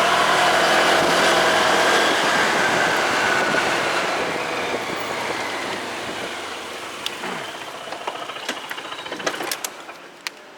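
Motorcycle engine and road noise dying away, the engine's pitch falling as it slows, with several sharp clicks near the end.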